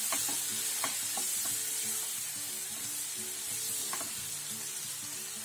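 Button mushrooms sizzling in butter and oil in a frying pan while a spatula stirs them, with a few scrapes and knocks of the spatula against the pan.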